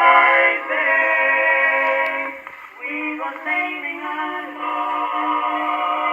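Male vocal quartet singing with accompaniment on an acoustic 78 rpm record, played back through a Victor Exhibition reproducer with a steel needle. The tone is thin and boxy with no deep bass or high treble, and a short break between sung phrases comes about two and a half seconds in.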